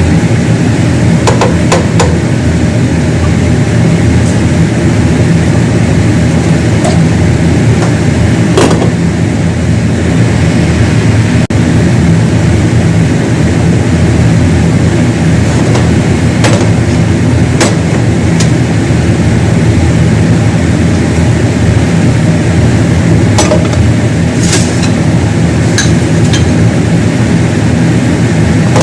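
A loud, steady machine hum with a few sharp clicks or clinks scattered through it.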